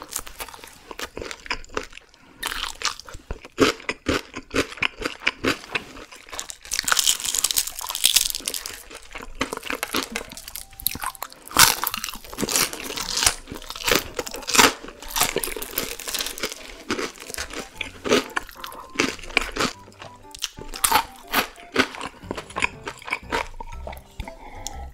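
Close-up crunching and chewing of crispy deep-fried whole chicken, with many sharp, irregular crackles from the fried skin.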